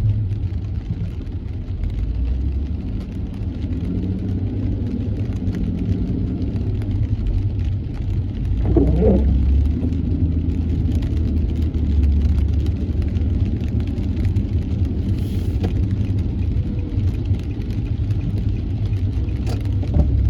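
Car driving in traffic on a wet road: a steady low rumble of engine and tyres with a hiss, and the engine's pitch rising and falling as the car speeds up and slows. A short wavering squeak comes about nine seconds in.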